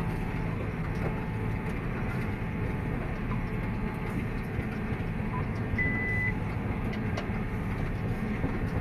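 Tractor and hay baler running steadily while baling, a continuous low engine hum with machinery clatter. A single short high-pitched beep sounds about six seconds in.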